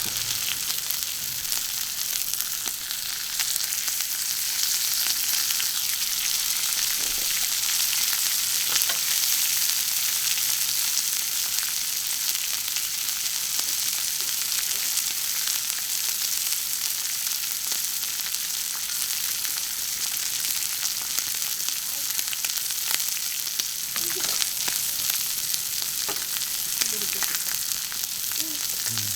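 Food sizzling steadily on a thick iron griddle plate, with scattered small pops.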